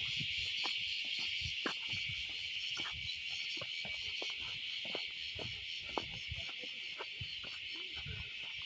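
Insect chorus in the forest, a steady unbroken high buzz, with scattered small clicks and soft low thumps over it.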